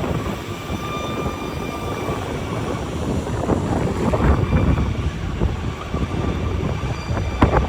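Wind buffeting the microphone in a snowstorm: a low, uneven rumble with faint steady hums above it.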